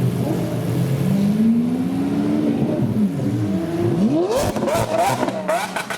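Supercar engines revving and accelerating, the pitch sweeping up and down through several climbs, with a steep rise about four seconds in. A rapid row of sharp clicks comes in for the last second and a half.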